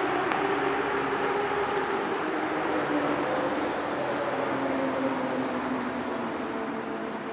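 Night city street traffic: a steady wash of car and tyre noise, with a vehicle's engine hum slowly dropping in pitch as it goes by.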